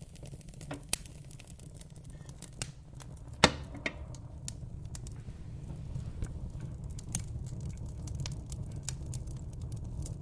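Wood fire in a fireplace crackling and popping over a low, steady rumble of the flames, with one sharp, louder pop about three and a half seconds in.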